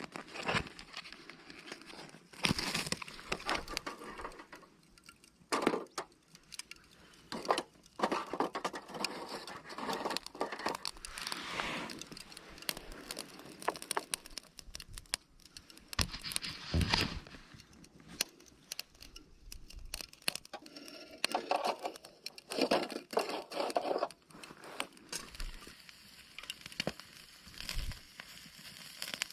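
Crinkling and rustling of plastic bags and packaging being handled, with scattered clatter and knocks, in irregular bouts separated by short pauses.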